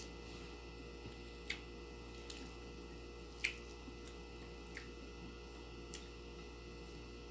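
Close-up eating sounds: soft, wet mouth clicks and smacks while chewing a mouthful of rice and fried egg, about six short ones spaced a second or so apart, over a faint steady hum.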